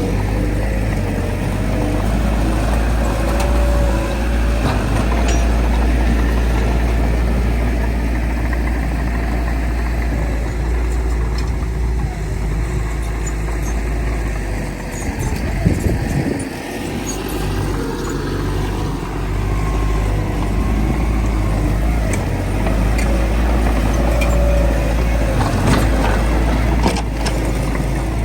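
Heavy diesel earthmoving machinery, a bulldozer working with dump trucks, running with a steady deep rumble. There are occasional clanks and short squeals, and the rumble dips briefly about halfway through.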